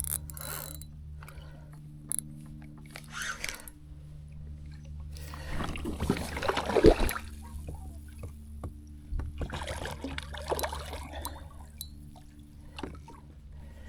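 Water splashing and sloshing in short bursts beside a kayak as a hooked redfish is fought close to the boat, over a steady low hum.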